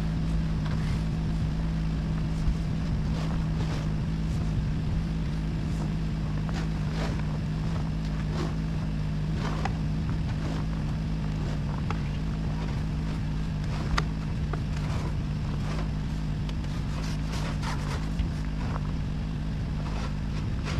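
A motor running steadily, with an even low drone and scattered light clicks and taps over it.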